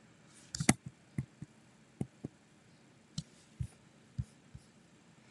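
A series of soft, irregular clicks and taps, about ten of them spread over five seconds, with quiet between.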